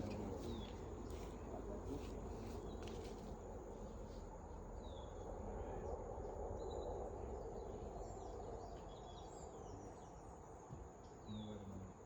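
Faint outdoor background: a steady high insect drone, with a few short bird chirps and some light clicks.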